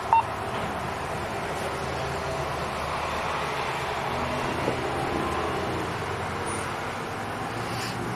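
Steady vehicle engine and road noise with a low hum, and a short beep just after the start.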